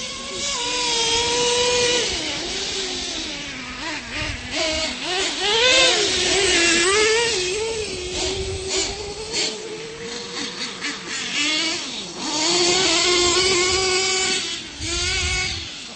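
Radio-controlled monster trucks running, their small motors whining and revving up and down in pitch, louder in the middle and again near the end.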